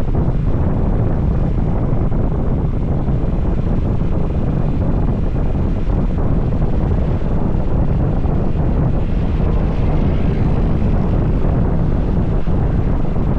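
Moving motorcycle: steady wind rumble on the microphone over the engine and road noise.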